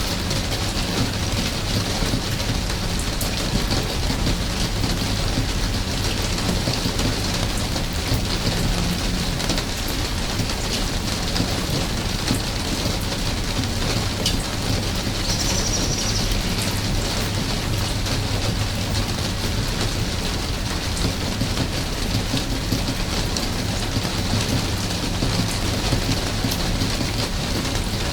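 Steady rain falling: an even hiss with scattered drop ticks and a constant low rumble underneath.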